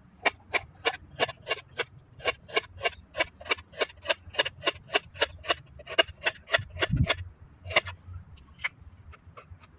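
A knife chopping on a cutting board in an even rhythm of about three strokes a second. It stops about seven seconds in, and a few single strokes follow.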